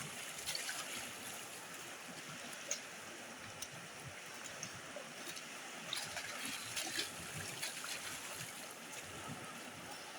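Water running steadily, with a few small splashes about two and a half seconds in and again around six to seven seconds.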